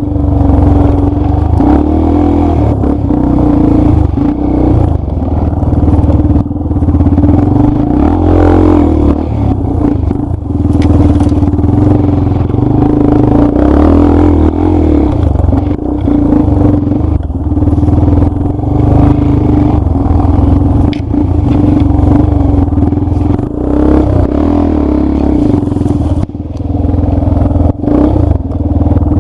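Dirt bike engine running steadily in a low gear while riding a rough trail, with scattered knocks and rattles from the bike over the ground.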